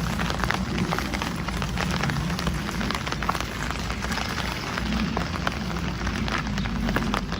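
Rain falling, with many small drop impacts ticking irregularly over a steady hiss and a low rumble underneath.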